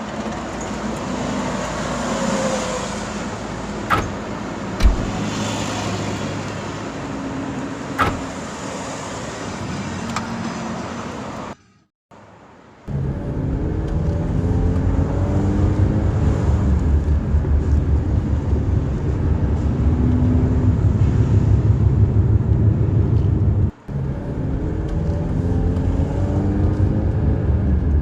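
A motor vehicle on the road: steady engine and road noise with a few sharp knocks in the first part. After a cut about twelve seconds in, it carries on as a louder, pulsing low engine rumble.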